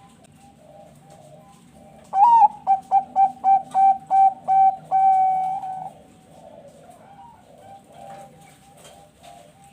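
Zebra dove (perkutut bangkok) singing loudly, starting about two seconds in: a rising opening note, a quick run of about eight short coos, then one longer held coo. Other doves coo faintly and continuously underneath.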